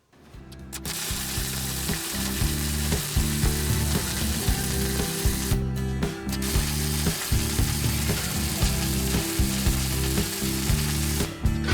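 Wire-feed welder laying a bead along the seams of a sheet-metal motorcycle gas tank, with a steady frying crackle and buzz. It starts about half a second in and stops briefly twice, near the middle and near the end.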